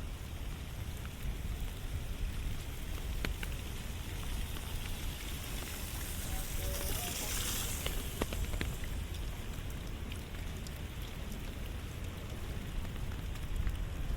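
Steady rain falling, with a few sharp drip-like clicks close by. A brighter hiss swells and fades about halfway through.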